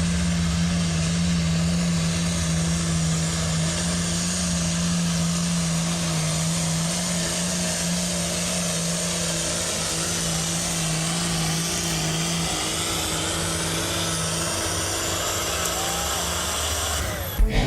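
The diesel engine of an altered stock pulling tractor running hard and steady under full load, making a loud, even drone. It cuts off abruptly near the end.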